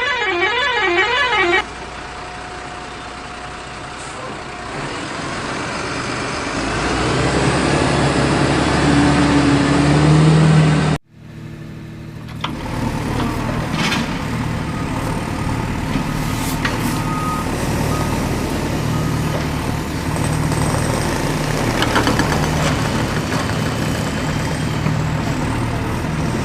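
Heavy truck engine sound: an engine revving up steadily for several seconds, then cutting off abruptly. After a brief gap it is followed by a heavy engine running steadily, preceded at the very start by a brief warbling siren-like tone.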